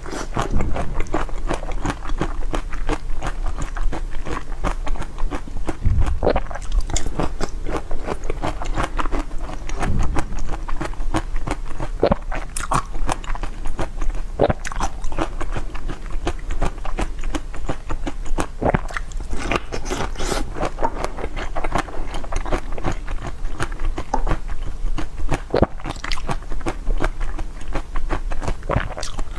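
Close-miked biting and chewing of hard, crunchy food: a dense, continuous run of sharp crunches and crackles.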